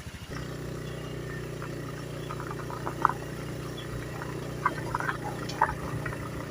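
A small engine running steadily with a low, even hum, starting about a third of a second in, with scattered light clicks over it.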